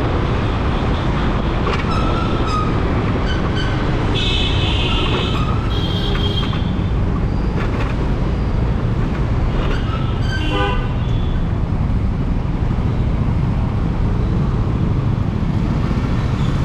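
Steady road and wind rumble from riding a scooter through city traffic, with vehicle horns honking several times: a few short toots early on, a longer horn blast around four to six seconds in, and another around ten seconds in.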